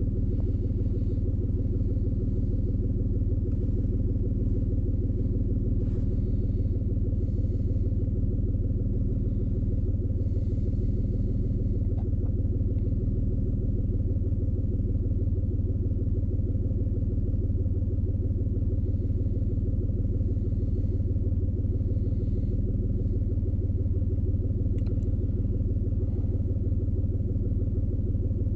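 2003 Ford Escape engine idling steadily after a cylinder 4 misfire repair, which the mechanic expects to have cured the misfire.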